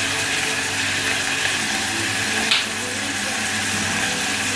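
Onion and tomato sizzling steadily in hot olive oil in a small steel saucepan on a gas hob, with one brief click about two and a half seconds in.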